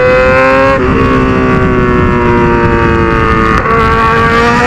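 Yamaha XJ6 inline-four on a straight-pipe exhaust under hard acceleration. The engine note breaks sharply about a second in and again near the end, typical of gear shifts, and it rises again after the second break.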